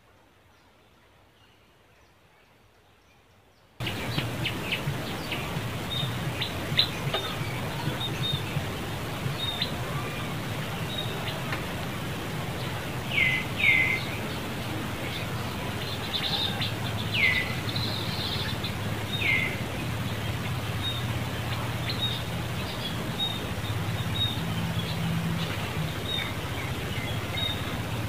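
Birds chirping over a steady outdoor background hum, with a few louder short falling calls scattered through. The first few seconds are near silence.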